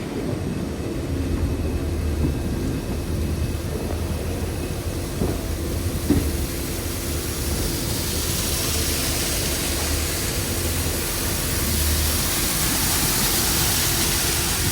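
Passenger train running: a steady rumble of the moving coaches with a couple of short clicks around five and six seconds in, and a hiss that builds from about halfway.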